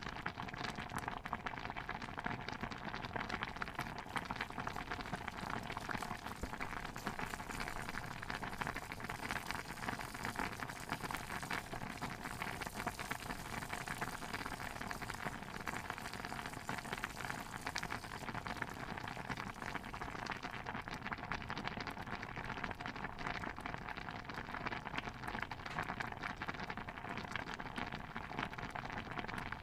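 A pot of stew bubbling at a steady boil: a dense, even patter of popping bubbles.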